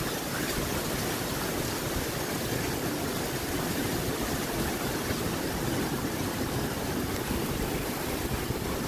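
Rainstorm: heavy rain and strong wind making a steady, even rushing hiss.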